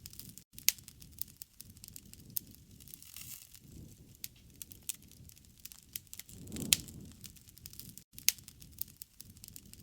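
Wood campfire crackling, with frequent sharp pops and snaps over a low rush of flames that swells about two-thirds of the way in. The sound cuts out for an instant twice.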